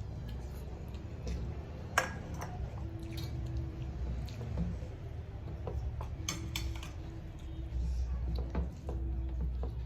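Dishes and utensils clinking during a meal: scattered light clinks, with one sharp clink about two seconds in and a few more around six seconds, over a low steady hum.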